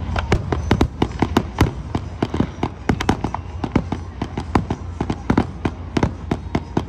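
Aerial fireworks going off in rapid succession: sharp bangs and cracks, several a second, over a continuous low rumble.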